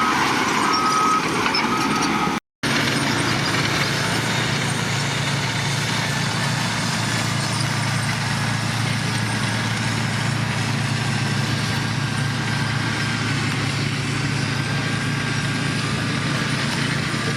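A heavy diesel construction machine's engine running at a steady low drone. In the first two seconds a reversing alarm beeps three times, then a brief dropout.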